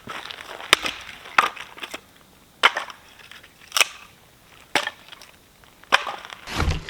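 Firewood being chopped: about six sharp wooden chops, roughly a second apart.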